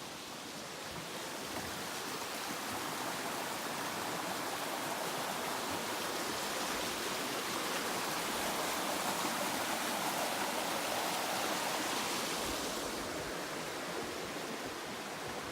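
Steady rush of flowing water from a mountain stream, growing a little louder in the middle and easing toward the end.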